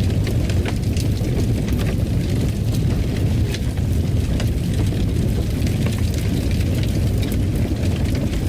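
Fire crackling in a fireplace: a steady low rumble of the flames with many small, scattered sharp pops and snaps.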